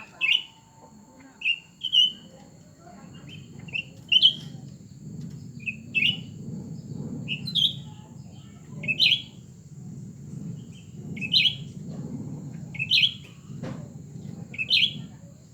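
Cucak ranting songbirds calling back and forth in a contest, a short sharp chirp roughly every one and a half to two seconds, over a steady low background rumble.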